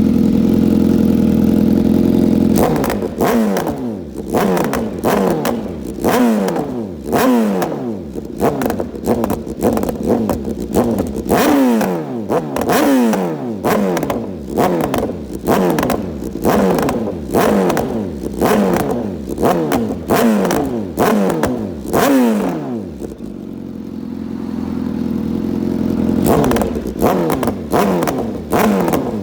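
BMW S1000R's inline-four engine breathing through a full Akrapovič exhaust. It is held at a steady speed for about two seconds, then revved in quick throttle blips, about one a second, each rising sharply and falling back. It settles to idle for a few seconds near the end, then the blips start again.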